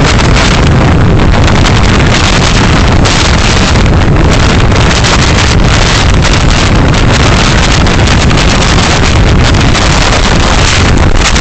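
Steady, loud road and wind noise from a moving car, picked up by its dashcam microphone.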